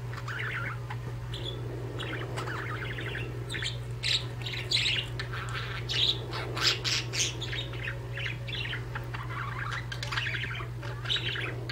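Pet budgerigars chirping and chattering in quick, irregular bursts, loudest around the middle, over a steady low hum.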